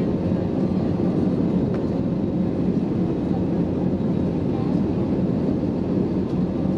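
Steady low cabin roar of an Airbus A321neo's Pratt & Whitney geared turbofans and airflow, heard from inside the cabin in flight after takeoff, with a faint steady hum above the rumble.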